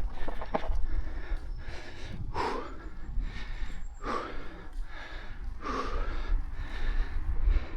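A cyclist breathing hard while riding, with a heavy breath about every second and a half to two seconds, over low wind rumble on the microphone.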